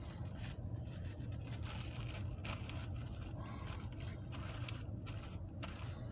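Steady low hum inside a parked car, with a few faint clicks and rustles of handling.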